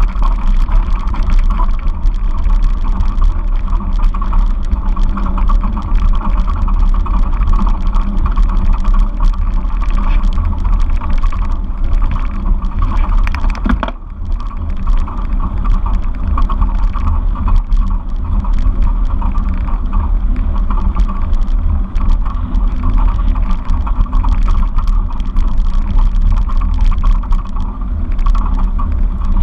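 Steady wind noise buffeting the microphone while riding a bicycle, with a deep rumble underneath; it eases briefly about fourteen seconds in.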